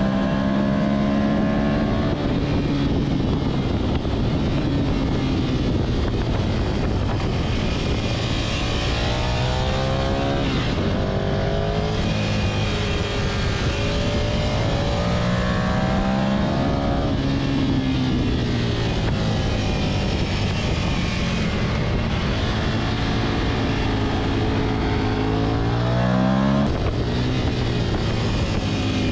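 Ducati Monster 659's L-twin engine at track speed, heard from onboard, rising in pitch as it revs out and dropping back at gear changes and corners, several times over. Heavy wind rush on the microphone runs underneath.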